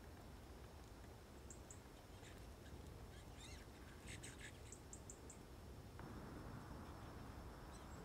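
Faint, thin, high-pitched calls of small birds over quiet woodland background: two short chips about a second and a half in, then a quick run of four or five chips, with a few scratchier notes just before, around four to five seconds in.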